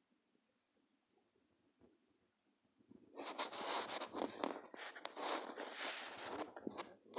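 A few short, high bird chirps in the first three seconds. Then a loud, rough rustling noise with rapid crackles takes over for the rest.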